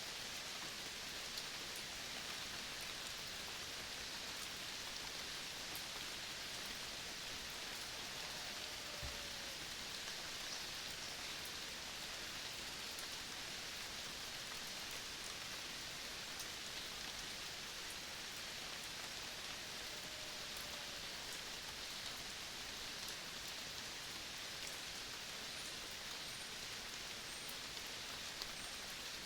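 Steady high hiss of a tropical forest soundscape at midday, with a couple of faint, short descending whistles from birds.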